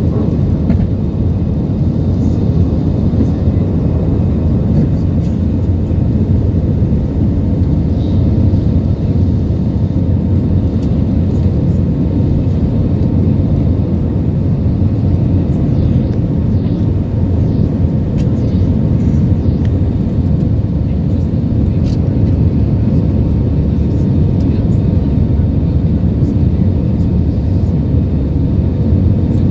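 Inside the cabin of an Airbus A320-214, its CFM56 jet engines and the rushing air making a steady, loud low rumble at high thrust.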